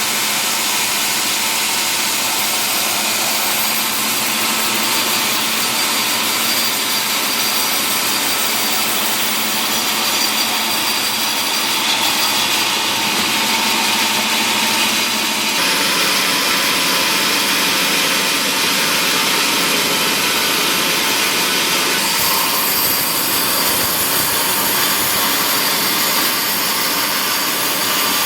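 Sawmill saw cutting mahogany timber: a loud, steady, rushing machine noise whose tone changes suddenly about halfway through and again later.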